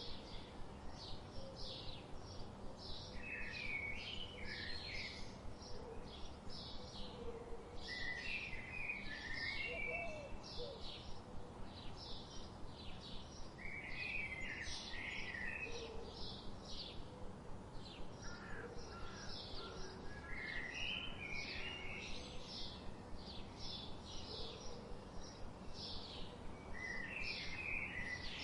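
Tropical forest birds calling: an even series of short high notes, about two a second, keeps going throughout, while another bird repeats a short warbled phrase roughly every five or six seconds.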